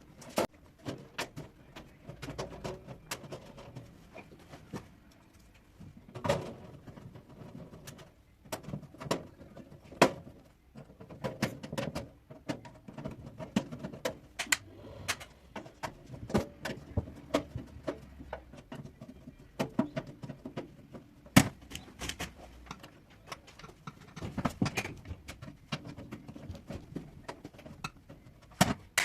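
Irregular clicks, taps and knocks of hand work on the hot air oven, its cover and parts being handled and fitted back on.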